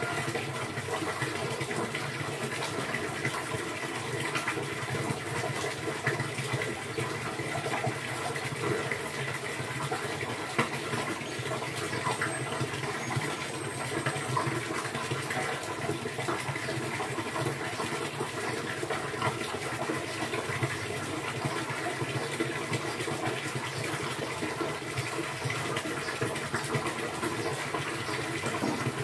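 Steady running water, an even rushing sound with no breaks.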